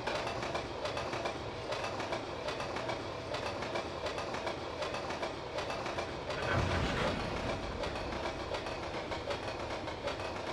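Freight cars of a manifest train rolling past, wheels clattering over the rails in a steady run of clicks, with a louder swell about six and a half seconds in.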